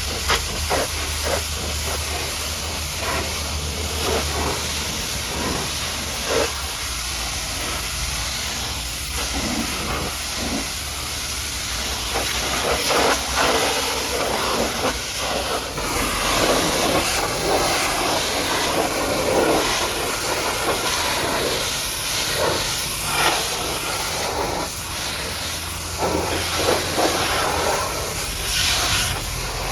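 High-pressure washer jet spraying a mud-caked truck: a steady hiss of water with spatter, swelling and fading as the jet moves and louder in the middle stretch. A low hum sits underneath at the start and again near the end.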